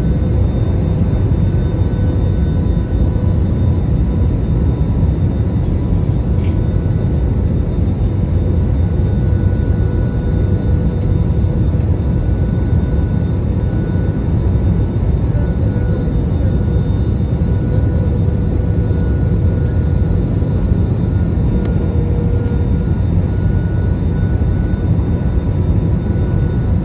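Steady cabin noise of a jet airliner in flight: a deep, even rumble of engines and airflow, with a few faint steady whines above it.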